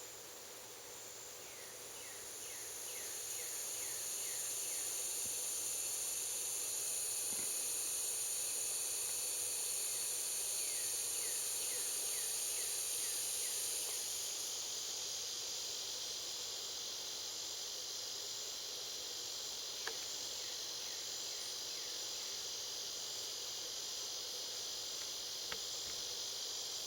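Steady high insect chorus that swells about two seconds in and eases back about halfway through. Now and then a bird gives a faint run of short, falling chirps.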